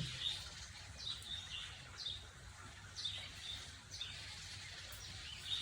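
A bird chirping repeatedly in the background: short, high downward chirps about once a second, over a low steady room hum.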